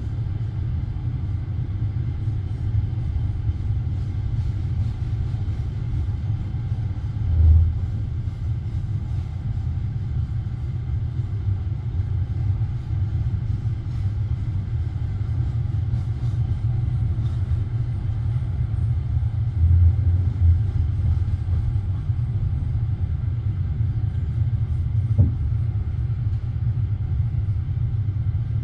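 Passenger train carriage in motion, heard from inside: a steady low rumble of wheels on the track, with a few brief thuds and knocks.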